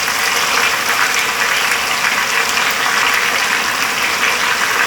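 Marinated chicken pieces sizzling in hot oil in a skillet as they sear, a loud, steady crackling hiss from the pan on turned-up heat.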